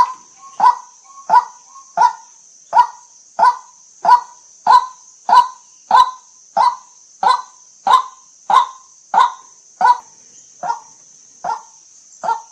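White-breasted waterhen calling a repeated 'kwak', about three calls every two seconds in an even rhythm, spacing out slightly and getting a little fainter near the end.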